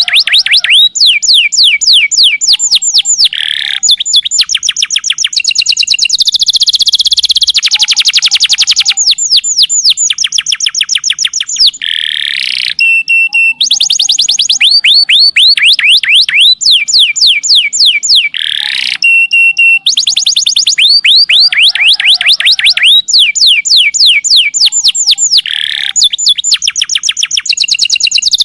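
Domestic canary singing long, loud trills: rapid runs of quick descending high notes, switching to a new trill every second or two, with a few brief buzzy and whistled phrases between.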